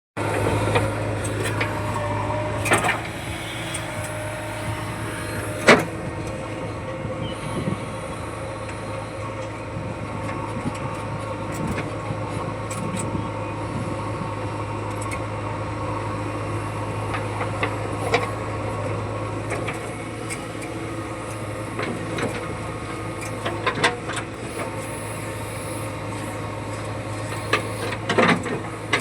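Heavy diesel engine of a working machine running steadily, with scattered knocks and clanks over it.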